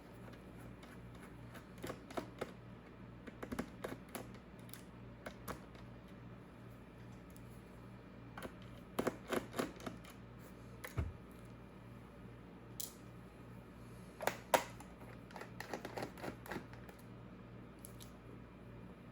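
Irregular light clicks and taps from hands handling the laptop and its packaging, in small clusters, over a low steady hum.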